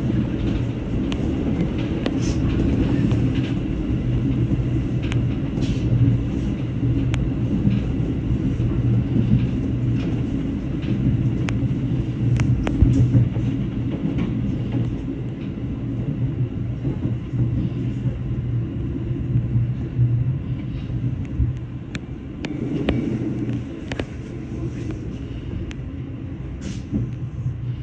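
JR 211 series electric train running on the rails, heard from inside the front car: a steady low rumble with scattered sharp clicks from the wheels.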